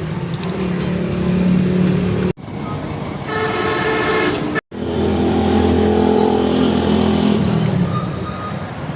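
Motor vehicle engine running, with horn-like toots. The sound comes in three pieces, broken off abruptly twice.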